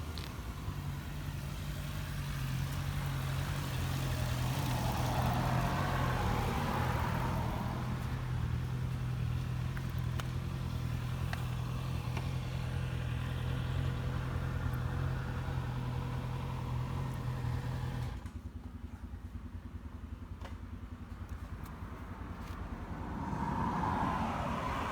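MV Agusta Brutale 1090 RR's 1078 cc inline-four idling with a steady low hum. About 18 seconds in the hum drops away and goes quieter. A swelling whoosh rises and falls twice.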